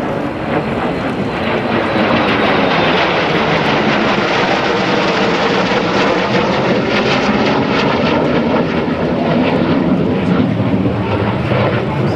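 North American F-100F Super Sabre's J57 turbojet engine, a loud jet roar as the aircraft passes. It builds about two seconds in, holds, and eases slightly near the end.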